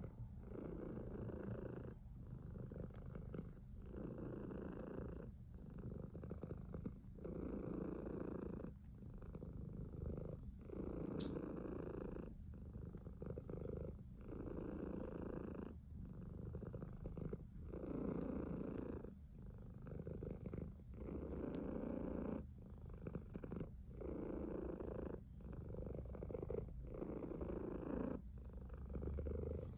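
Cat purring close up, the purr coming in even phrases of about a second with a brief break at each breath.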